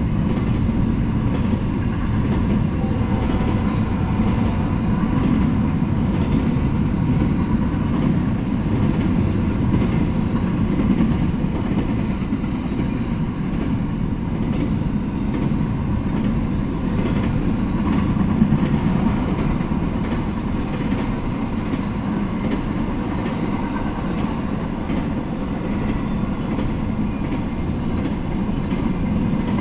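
Intermodal freight train of double-stack container well cars and trailer-carrying flatcars rolling past, with a steady rumble of wheels on the rails.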